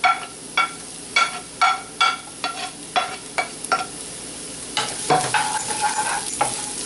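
Chopped garlic, green chili and onion sizzling in hot olive oil in a skillet while a utensil stirs them, knocking on the pan with a ringing clack about twice a second. About five seconds in, the knocks give way to quicker, closer scraping and stirring.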